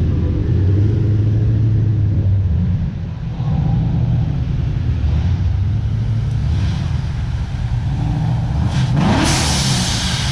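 Classic car engines rumbling as cars drive slowly past, one revving up with a rising pitch and a rush of hiss about nine seconds in.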